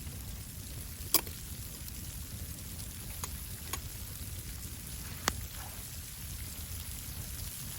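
Steady rain with a low rumble underneath, and a few sharp ticks, the loudest about a second in and about five seconds in.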